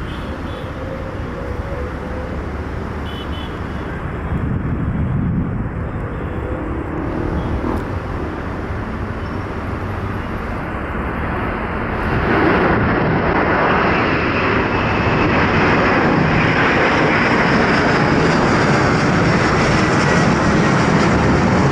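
Jet airliner engines running as a steady roar, which grows louder about halfway through as the aircraft comes closer.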